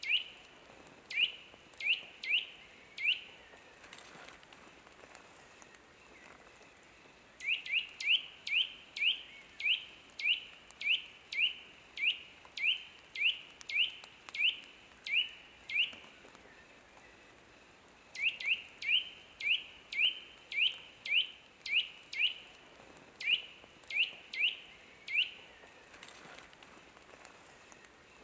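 A bird calling a repeated series of short, rising chirps, about two a second, in several bouts with pauses of a few seconds between them.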